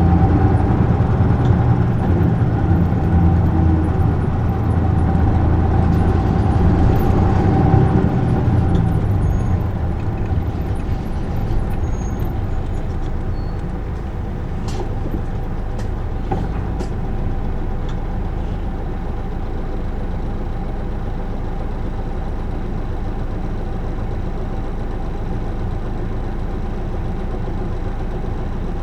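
Isuzu Erga PJ-LV234L1 city bus's diesel engine, heard inside the cabin: it runs under way for about the first ten seconds, then drops to a quieter, steady idle. A few sharp clicks come about halfway through.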